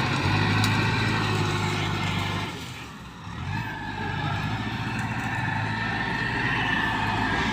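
Tractor engine running with a steady low note. It drops away for about a second around three seconds in, then picks up again.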